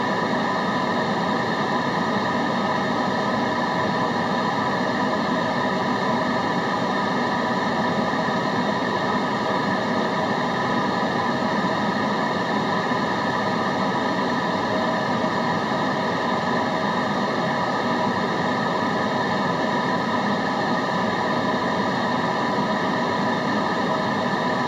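Steady, unchanging white-noise hiss with no breaks or events, spread evenly from low to high pitch.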